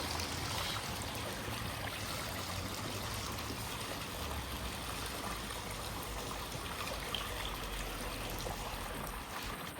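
Decorative waterfall: water running and trickling steadily.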